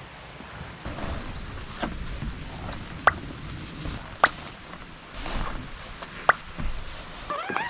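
A one-touch pop-up tent being handled and pitched, with four sharp clicks from its frame spread over a few seconds.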